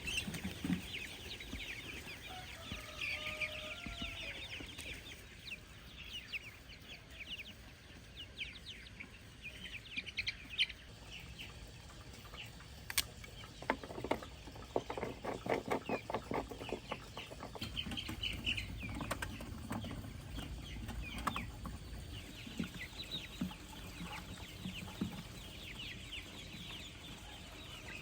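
Free-range chickens clucking and calling, with a run of quick repeated clucks about halfway through.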